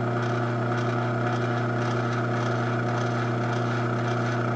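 LiftMaster 8164W garage door opener's AC motor running steadily with a low, even hum as it drives the door down while the down limit is being set.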